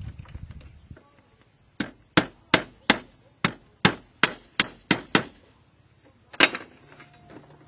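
A tool striking bamboo: about ten sharp blows in quick succession, roughly three a second, then one more after a short pause. A steady high insect drone runs behind.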